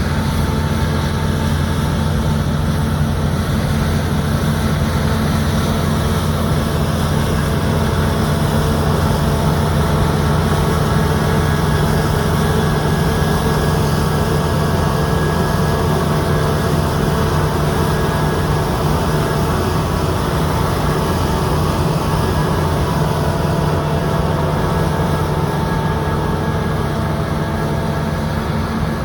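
Claas Lexion 760 combine harvester running steadily while threshing barley, with the engine's steady low drone and the machinery's steady higher whine.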